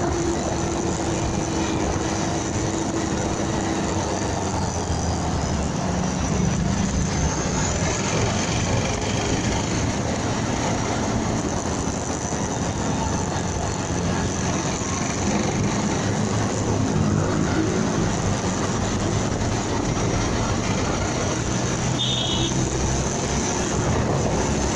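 Motorcycle on the move, its engine running under steady wind and road noise on a dashcam microphone, the engine note shifting slightly. A short high tone sounds near the end.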